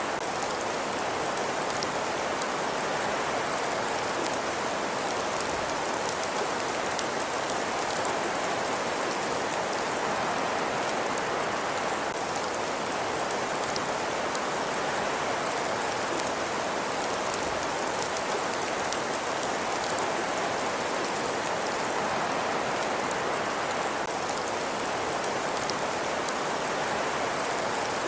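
Steady, even hiss like rain falling, with faint scattered ticks, from a looped ambience track.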